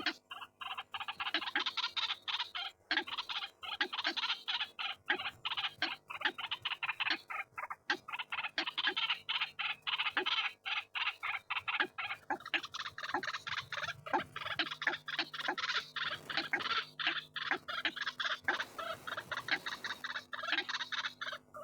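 White-breasted waterhens calling: a fast, unbroken stream of harsh croaking notes, with a short deeper note repeating about twice a second underneath.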